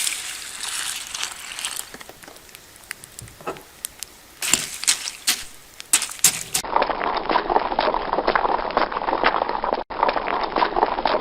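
A crackling, noisy stretch with scattered sharp clicks and knocks. About six and a half seconds in, it gives way to a horse's hooves clip-clopping in a quick, uneven run of knocks.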